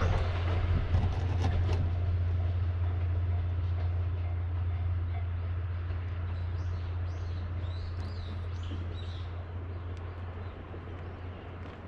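Steam-hauled train of 12-series passenger coaches rolling away past a level crossing, its low rumble fading steadily. A few sharp clacks of wheels over rail joints come in the first two seconds, and small birds chirp in the middle.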